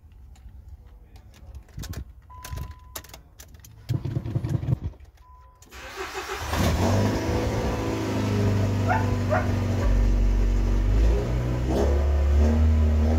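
Nissan Sentra SE-R Spec V's 2.5-litre four-cylinder engine being started. First come clicks and a short beep, twice, and a brief cranking rumble. The engine catches about six seconds in and then runs loud, its pitch shifting as the throttle is worked.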